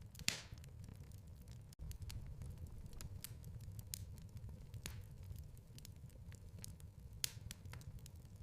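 Fireplace fire crackling: irregular sharp pops and snaps over a low steady rumble of the flames, with a louder pop just after the start and another near the end.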